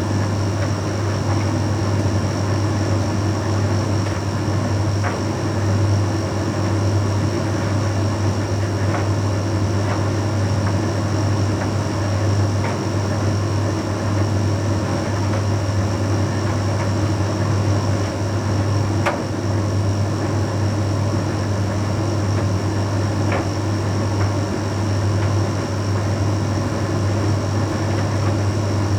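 Bosch Series 6 heat pump tumble dryer running mid-cycle: a steady low hum with a thin high whine above it, and a few faint clicks scattered through.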